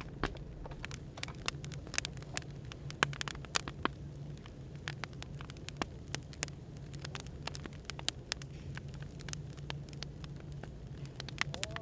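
Wood fire crackling, with irregular sharp pops and snaps over a steady low hum and hiss of background noise.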